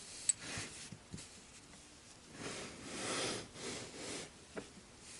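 Quiet handling noises from the parts of a disassembled folding knife: a sharp light click just after the start, soft rustling and rubbing in the middle, and another small click near the end.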